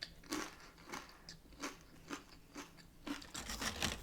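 A person biting and chewing crisp fried corn tortilla close to the microphone: irregular single crunches, then a quicker run of them near the end.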